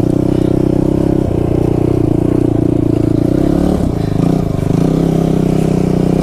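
Kawasaki KFX 450R quad's single-cylinder four-stroke engine running under throttle in first gear at steady revs, with a brief dip in engine speed about four seconds in.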